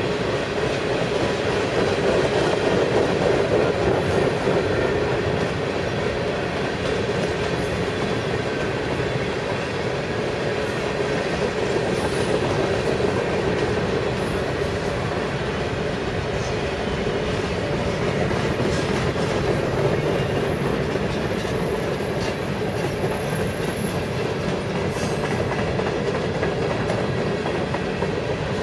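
Freight train of tank cars and boxcars rolling past, the steady noise of steel wheels running on the rails, with the last car going by near the end.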